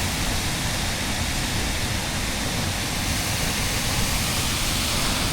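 Waterfall water pouring over a rock ledge: a steady, even rush with no let-up.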